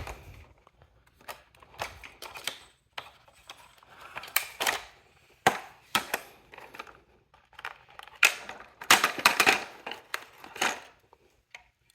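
Hard plastic clicks, snaps and rattles of a Roomba s9's dust bin being handled: unlatched, pulled out and opened by hand, in scattered clusters.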